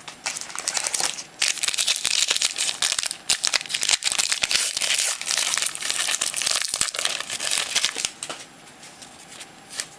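Crinkling and rustling of trading-card pack wrappers and cards being handled, dense crackly handling noise that dies down about eight seconds in.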